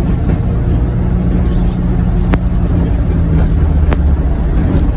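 2021 John Deere Gator UVX 835M utility vehicle's engine running steadily under load while pushing snow, a continuous low drone. Two faint ticks come in the middle.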